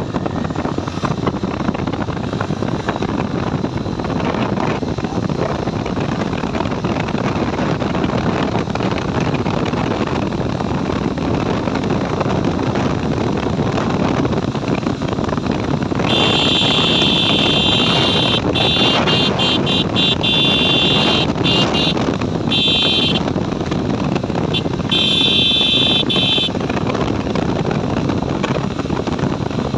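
Steady wind and road noise of a moving motorcycle. From about halfway through, a high-pitched horn honks in a series of short and longer blasts, with a few more near the end.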